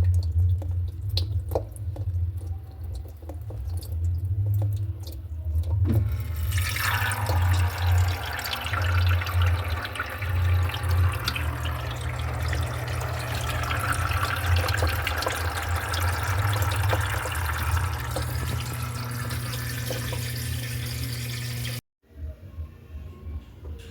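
Electrolux LED14 washing machine with a low motor hum; about six seconds in, water starts rushing into the tub as it fills. The sound cuts off abruptly near the end.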